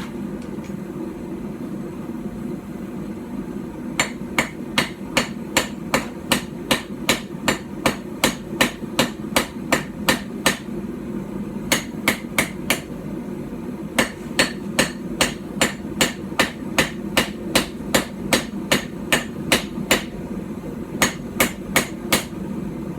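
Small hand-forged hammer, about 12 ounces, striking steel on a small stump anvil while forging a knife: quick runs of ringing blows, about three a second, starting about four seconds in with a few short pauses between runs. A steady low hum runs underneath.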